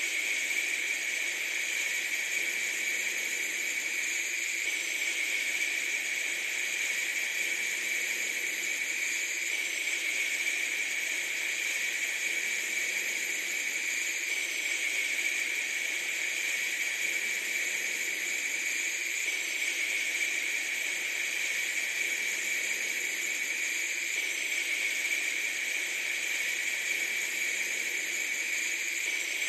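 A steady hiss, high-pitched with no low rumble, that shifts slightly about every five seconds.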